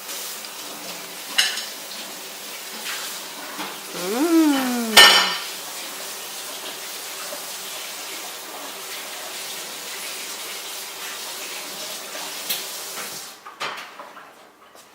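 Dishes and cutlery clattering at a kitchen table over a steady hum. About four seconds in there is a short squeal that rises and then falls, then a sharp clack. The hum cuts off near the end.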